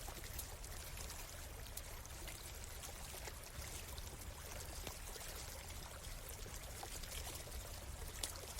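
A stream running steadily, with a campfire crackling over it: scattered sharp pops and snaps.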